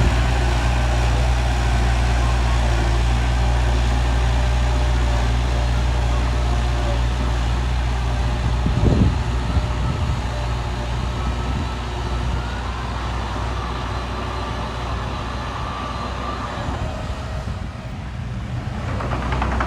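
Heavy diesel earthmoving machinery running steadily with a deep engine hum, with a brief louder surge about nine seconds in.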